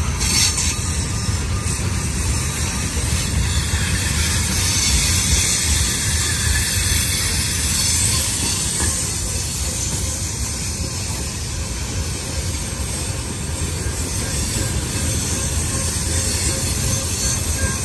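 Train passing on the rails: a steady low rumble with a high hiss of wheel and rail noise.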